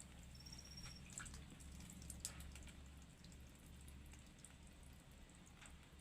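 Faint small water splashes and drips with scattered ticks, typical of a small songbird bathing in a water dish. A brief high, thin whistle comes near the start, over a steady low hum.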